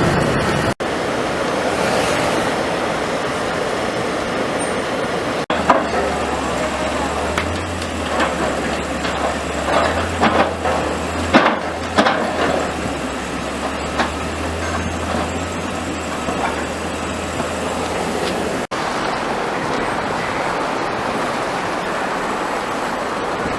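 Car driving on snow-covered roads, heard from inside the cabin: a steady rush of road and engine noise. A low hum and a handful of sharp knocks come in the middle. The sound breaks off abruptly a few times at edit cuts.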